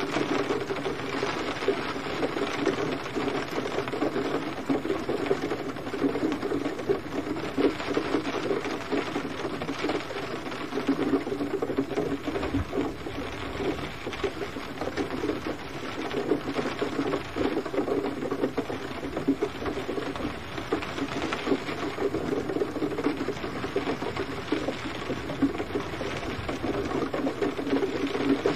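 Steady gentle rain: a dense patter of drops striking a surface, swelling and easing slightly in loudness.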